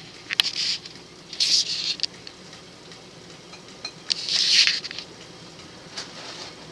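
Modern Fan Co. Industry ceiling fan with a GE stack motor running on high, with balloon strings caught inside it. Three short bursts of rustling, plus scattered light ticks, over a faint steady hum. The strings are rubbing around inside the fan and choking it.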